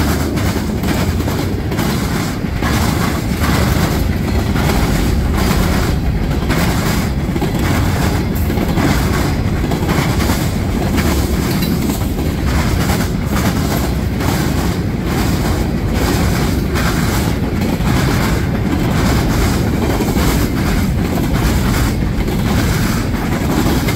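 Mixed freight train cars rolling past at high speed, their steel wheels hammering over a railroad diamond crossing in a steady run of loud clattering impacts over the rumble of the train.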